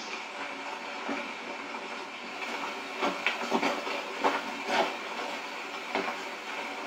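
Steady hiss of rain, with a cluster of sharp, irregular knocks from about two and a half to five seconds in.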